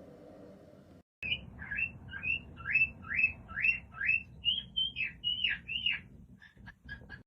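Cockatiel whistling a run of about a dozen short calls, two to three a second, the early ones rising in pitch and the later ones falling, then a few faint short peeps near the end.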